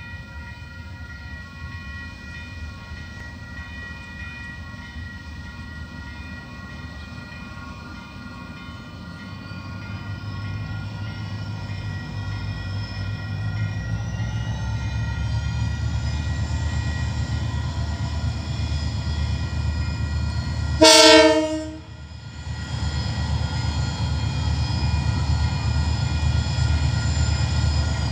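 Coal train's diesel locomotive approaching, its low rumble building steadily from about ten seconds in. One loud horn blast of about a second comes about twenty seconds in, followed by the locomotive and wagons rumbling on.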